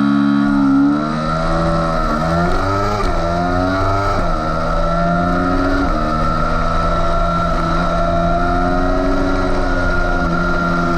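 Yamaha YZF-R3 racing motorcycle's 321 cc parallel-twin engine held at high revs for a race start, then launching and accelerating hard. The pitch climbs and drops with quick upshifts about two, three, four and six seconds in, then climbs slowly at high revs.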